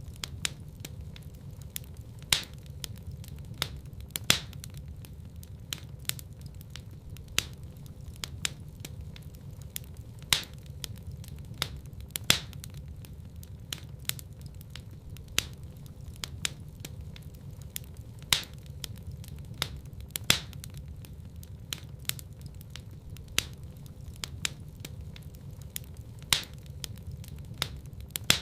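Wood fire burning in a fireplace: a low steady rumble of flames with irregular crackles and sharp pops, the loudest every few seconds.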